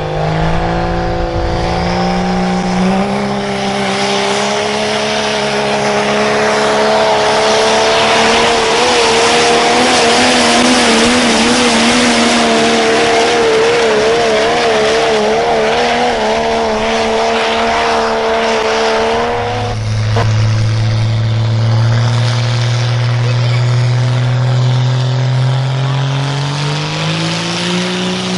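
Truck or tractor engine running hard under load at a pull, its pitch climbing steadily and then wavering as it works. About two-thirds of the way through the note drops sharply and then climbs again near the end.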